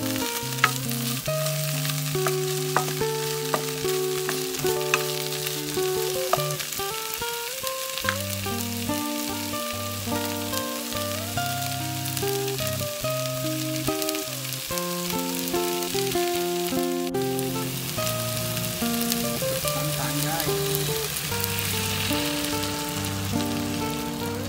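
Chunks of coconut palm heart with shallots and garlic sizzling in oil in a wok, stirred with a wooden spatula that clicks and scrapes against the pan now and then. Background music with sustained melodic notes plays over the frying.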